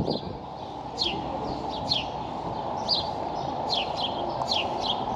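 Small birds chirping: short, quick falling chirps repeated about twice a second, over a steady low background noise.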